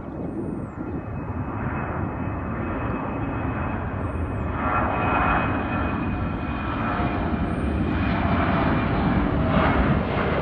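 Embraer 190 jet airliner's two turbofan engines running at takeoff power: a dense, steady jet noise with a faint high whine, growing gradually louder.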